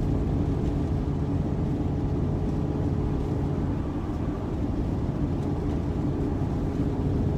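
Steady engine and tyre drone heard inside the cabin of a four-wheel-drive vehicle driving along a snowy highway, a low rumble with a constant hum and no sudden sounds.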